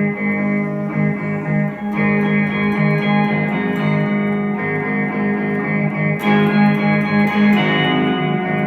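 Electric guitar played through an Ammoon Octa effects pedal: sustained, ambient notes ringing over a low drone, the sound growing fuller and brighter about six seconds in.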